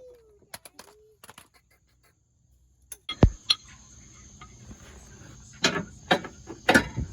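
Scattered sharp clicks and clanks of tools on car parts, with one heavy knock about three seconds in and several more knocks near the end, over a steady high-pitched tone.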